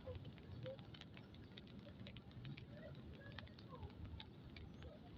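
Light rain pattering faintly, with scattered irregular drop ticks over a low rumble.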